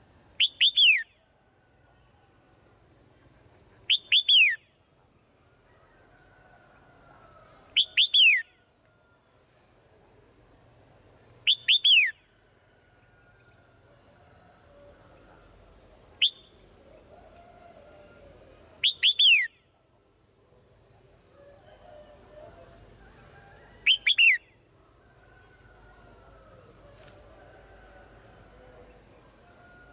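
Swallow calls: a short, loud call of quick falling whistled notes, repeated about every four to five seconds, over a faint steady high hiss.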